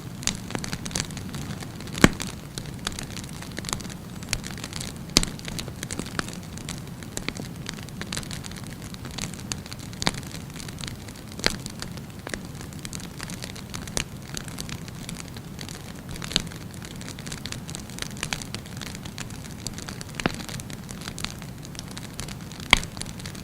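Wood fire burning steadily, with a low rush of flames and frequent sharp crackles and pops from the burning wood; a few louder pops stand out, one about two seconds in and one near the end.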